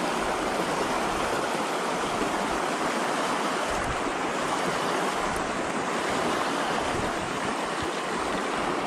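Shallow river rapid rushing steadily over rocks, a constant even hiss of moving water.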